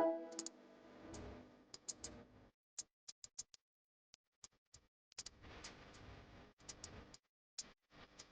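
Faint, sparse background music: a single plucked note rings out at the start and fades, followed by scattered ticking clicks.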